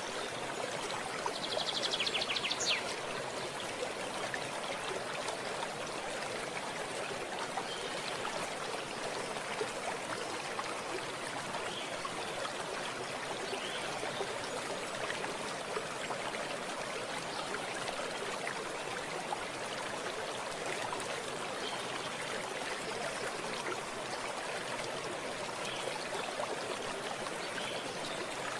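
Stream of running water flowing steadily. About a second in, a short, rapid, high-pitched trill rises above it for just over a second.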